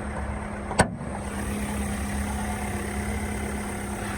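Volkswagen Passat engine idling steadily and smoothly, with no loud ticking. A single sharp click a little under a second in.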